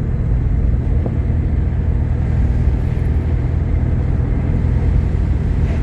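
Steady engine and road rumble of a vehicle being driven, heard from inside the cab.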